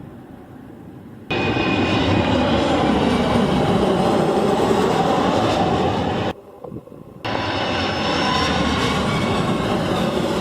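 Jet airliner landing: a loud, steady engine roar and rumble that starts suddenly about a second in, with faint gliding engine tones. It drops out abruptly for about a second just past the middle, then returns.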